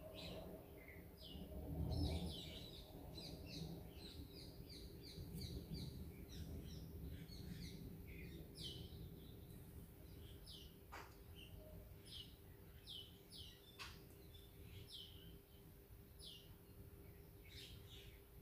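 Faint bird chirps: short falling notes repeating every second or so, with a quick run of notes in the first few seconds. Under them are a low rumble that swells about two seconds in, and a steady faint hum.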